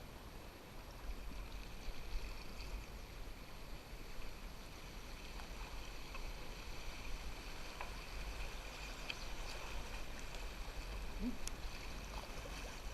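River water flowing and lapping around a canoe on the move, with a few faint knocks now and then.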